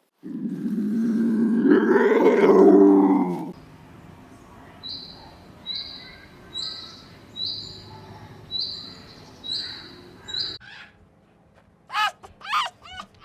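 Animal calls: a loud, low, pitched call lasting about three and a half seconds, then a run of about seven short, high, whistled chirps. Near the end come a few quick, falling, high calls.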